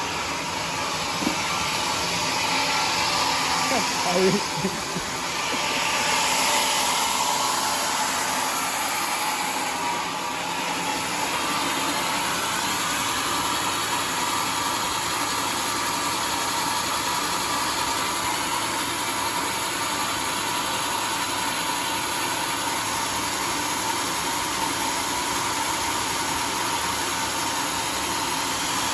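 Homemade sawmill running steadily, its saw blade turning at speed with a constant whine over loud even machine noise.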